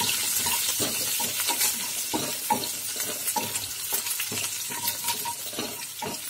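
A tempering of mustard seeds, cumin, onion, curry leaves and dried red chillies sizzling in hot mustard and groundnut oil in a kadai, with a spatula scraping and tapping against the pan several times a second as it is stirred.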